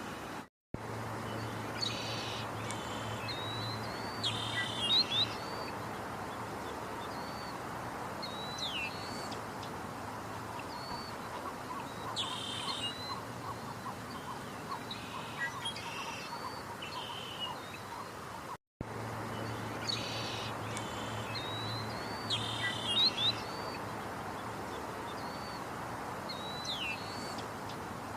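Wild birds calling: short whistled chirps and quick sweeping notes with a few harsh chattering calls, over a steady outdoor hiss. The sequence breaks off for a moment after about eighteen seconds and then plays over again.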